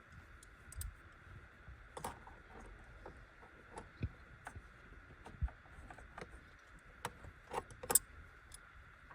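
Scattered light clicks and taps of plastic parts being handled and fitted under the car's hood, with a few sharper taps about two seconds in and near the end.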